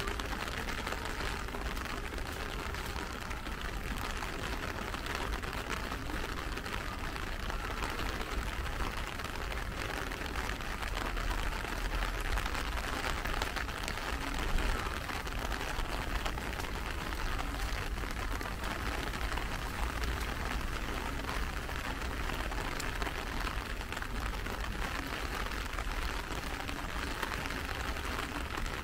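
Steady rain with a dense patter of small raindrop ticks, over a low, steady rumble.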